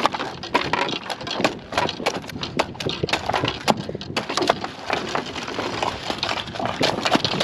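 Rapid, irregular knocks and thuds from a freshly caught tuna beating against the kayak as it is being killed with a brain spike.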